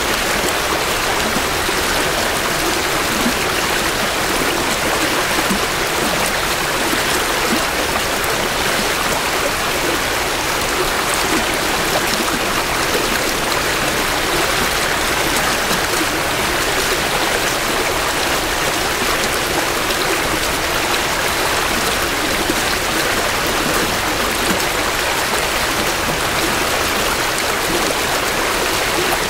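A shallow creek flowing steadily over rocks, recorded close to the water's edge: a continuous rushing and babbling of spring runoff.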